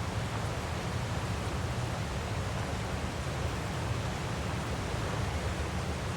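Steady, unbroken rushing of a waterfall, with more weight in the low end.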